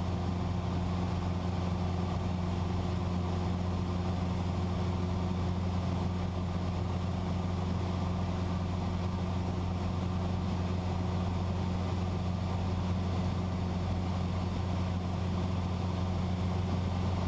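Cessna 172's piston engine and propeller droning steadily in cruise, heard from inside the cabin as an even low hum with no change in pitch.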